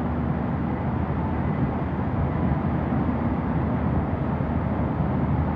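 Hurricane wind and rain, with the wind buffeting the phone's microphone as a steady low rumble.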